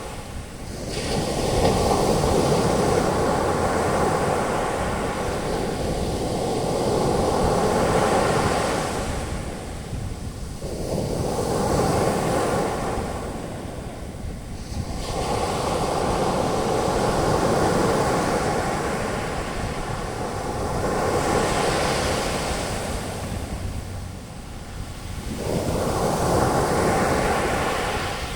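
Ocean surf breaking and its foam washing up the beach, a rushing hiss that swells and fades in about four long surges.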